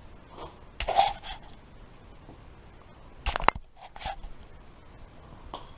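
Sheet-metal pieces knocking and clanking as they are handled and set down, in two short clusters about a second in and about three and a half seconds in, the second the sharper.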